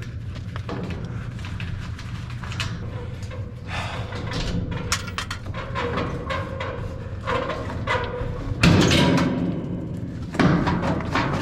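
Irregular knocking, scraping and clattering from working an old furnace's metal casing loose, busier in the second half, with two heavy bangs about nine and ten and a half seconds in. A steady low hum runs underneath.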